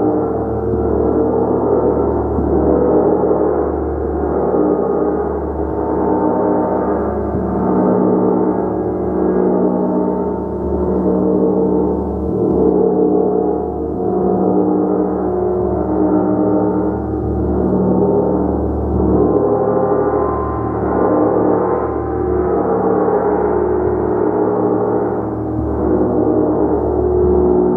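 Gong played continuously, a dense wash of many overlapping ringing tones that swells and eases about every two seconds as it is struck softly again and again.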